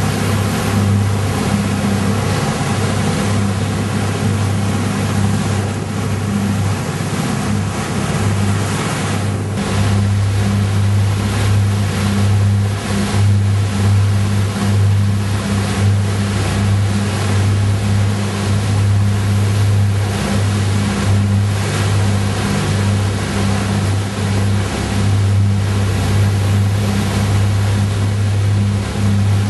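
A boat's engine running steadily at constant speed, a deep even hum, under a steady rush of water and wind.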